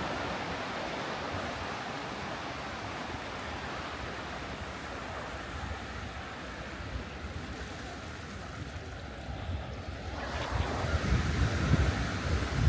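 Sea surf washing steadily onto a beach, with wind buffeting the microphone, the gusts growing stronger near the end.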